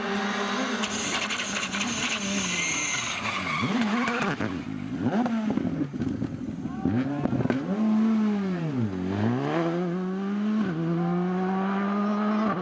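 Rally car engine running at high revs, its note repeatedly falling and rising as the throttle is lifted and reapplied, with one deep dip and climb about nine seconds in. A high hiss of tyres or skidding sounds over the engine in the first few seconds.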